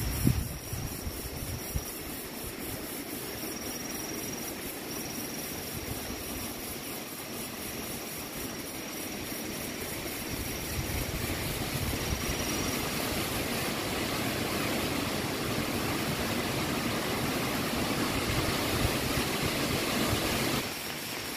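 Storm noise in the forest: a steady roar of wind and rain that slowly grows louder, then drops off suddenly near the end.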